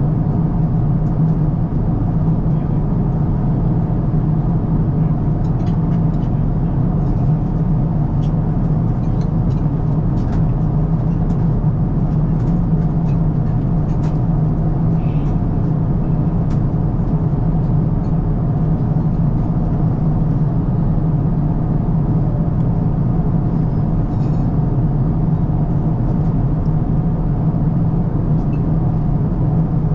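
Steady cabin noise of an Airbus A350-1000 airliner in flight: a constant low rumble of airflow and engines, with a few faint small clicks.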